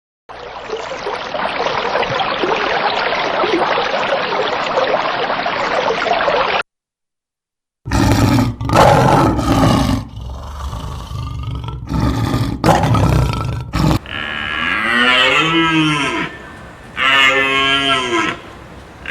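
A harsh, hissing sound for about six seconds, then after a short silence loud, low cattle bellowing. In the second half, cows moo in long calls that rise and fall in pitch.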